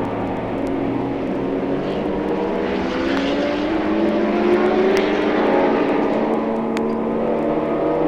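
Racing car engines running at speed, several engine notes heard at once, one climbing in pitch through the middle. Faint clicks of vinyl record surface noise run over it.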